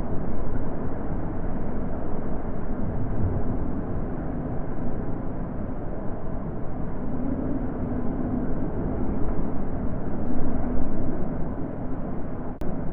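Steady wind, a deep rushing noise that swells and eases every few seconds.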